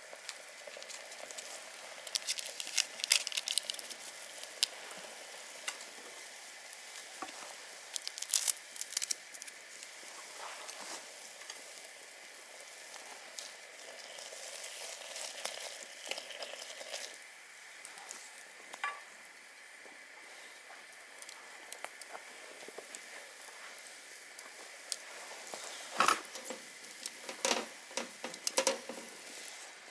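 Cooking over a wood campfire: a steady sizzle with sharp crackles and clicks, bunched in a few spells about two seconds in, around eight seconds and near the end.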